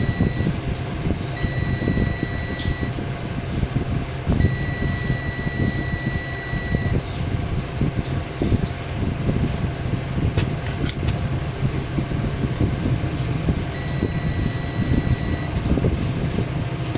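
Multimeter continuity beeper sounding in four steady high beeps of uneven length, the longest about two and a half seconds, over a steady low rumble.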